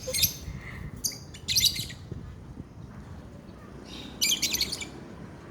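Lovebird giving short bursts of shrill, rapid chirps: three bursts in the first two seconds, then another about four seconds in.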